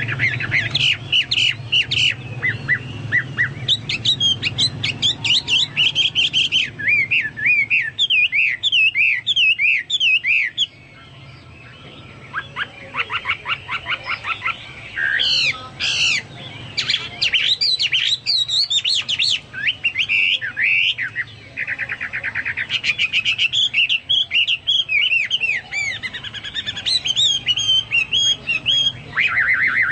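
Chinese hwamei singing a long, varied song of rapid whistled phrases and fast trills, with a brief lull about eleven seconds in. A faint low steady hum runs underneath.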